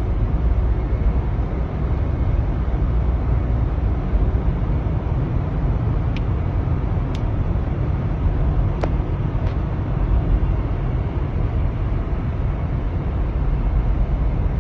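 Blizzard wind blowing hard against the microphone: a steady, loud, low rumble with a noisy hiss above it, and a few faint ticks around the middle.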